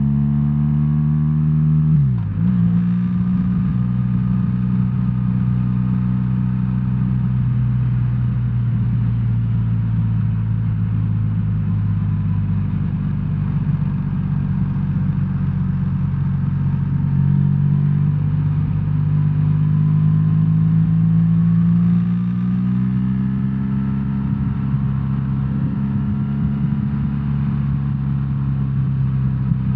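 BMW R1300R's boxer-twin engine running under way: it pulls up in revs, with a quick gearshift about two seconds in. It then cruises, with the engine note slowly easing off and rising again later.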